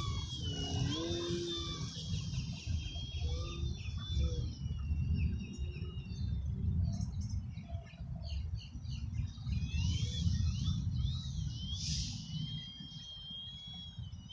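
Electric motor and propeller of a Multiplex Parkmaster 3D foam RC airplane whining in flight, its high pitch wavering up and down as the throttle and distance change. Low wind rumble on the microphone lies underneath.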